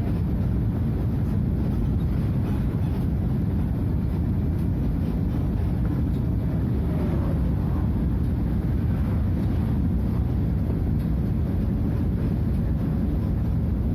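Scania DC09 five-cylinder diesel in a Scania F250HB bus running steadily under way, a low even drone with road noise and no gear changes or revving.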